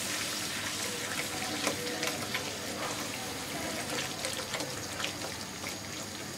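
Thick, reduced onion masala sizzling and bubbling in a kadai while a silicone spatula stirs and scrapes through it, with many small pops and scrapes.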